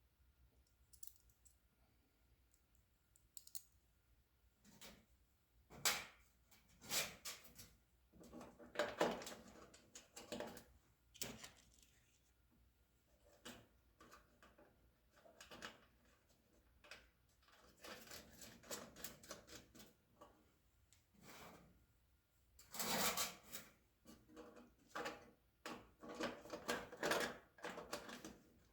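Irregular clicks and light metallic clatter of small nuts, bolts and washers being handled and fitted to a toaster oven's sheet-metal shell, in scattered bursts.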